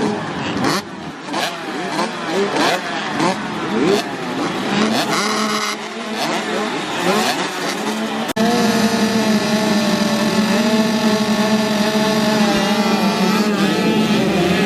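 Several motocross dirt bikes racing, their engines revving up and down in overlapping rising and falling pitches as they shift through the gears. After a sudden change about eight seconds in, a steadier engine note holds at nearly constant revs.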